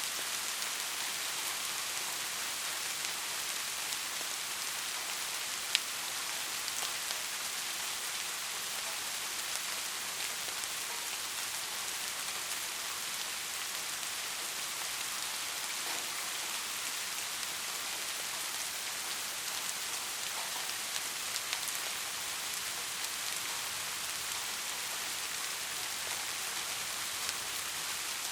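Steady soft rain hiss with scattered drops ticking on a surface, one sharper tick about six seconds in.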